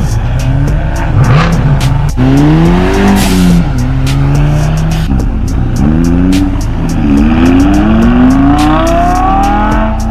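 A car's engine revving hard as it accelerates away, its pitch climbing, dropping at a shift and climbing again in a long pull near the end, over a steady music beat.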